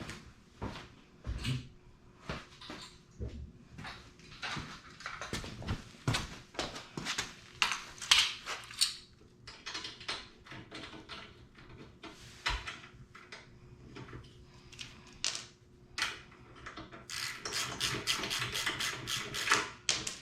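Hand tools working on a mini bike's brake assembly: irregular clicks and knocks of wrench and metal parts, with a quick run of clicks near the end.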